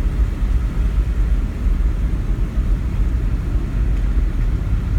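Truck driving through floodwater about two feet deep: a steady low rumble of the engine and water against the vehicle.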